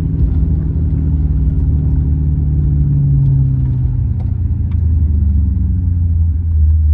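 A car engine and exhaust rumbling loudly and steadily, the pitch drifting slowly lower.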